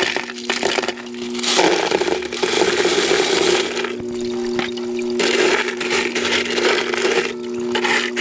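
Water pouring and splashing in uneven surges, over a steady low hum.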